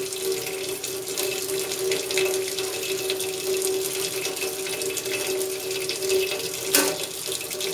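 Tap water running steadily into a sink while a drain tube is rinsed, with a steady hum underneath. A brief knock near the end.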